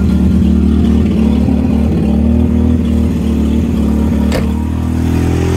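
1984 Mazda RX-7's rotary engine running steadily after a cold start without a working choke. There is a single click about four seconds in, and the note changes slightly just after it.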